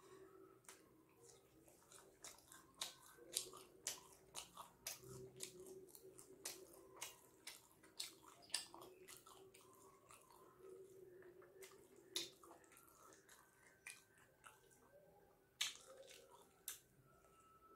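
Faint, close-up chewing of soft steamed chicken momos: wet mouth clicks and smacks scattered several times a second. A faint steady hum sits underneath.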